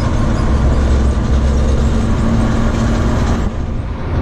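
Fire truck's engine running with road noise while driving, heard from inside the cab. The sound dips briefly about three and a half seconds in, then picks up again.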